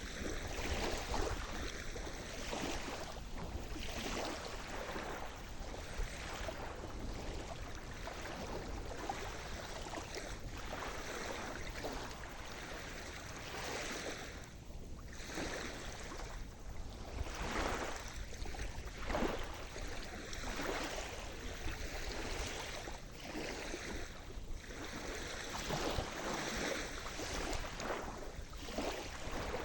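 Sea surf: waves breaking and washing in continuously, swelling and easing every few seconds.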